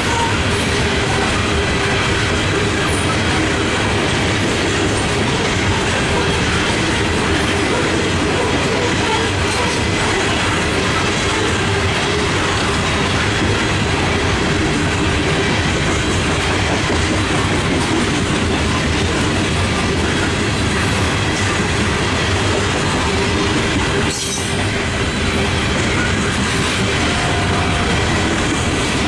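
Loaded coal hopper cars of a freight train rolling past close by: a steady, loud rolling rumble and rattle of steel wheels on rail, with faint steady squealing tones above it.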